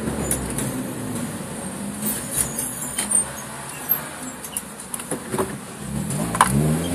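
Suzuki Swift Sport race car's four-cylinder engine heard from inside the stripped, roll-caged cabin, running at lower revs with sharp clicks and rattles from the bare interior. The engine note climbs again near the end.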